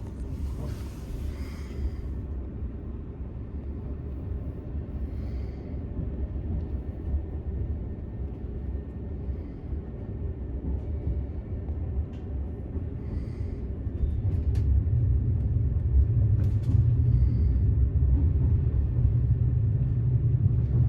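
Low, steady running rumble of a VR InterCity train heard from inside the carriage, getting louder about two-thirds of the way through, with a few faint ticks over it.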